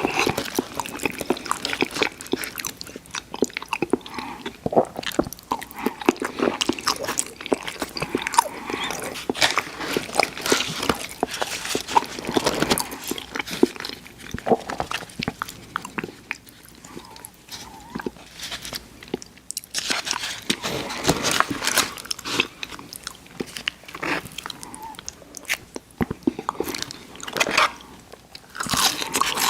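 Close-up eating sounds: fried chicken and fries being bitten and chewed with wet, crunchy crackling, in irregular bursts with a few quieter pauses between mouthfuls.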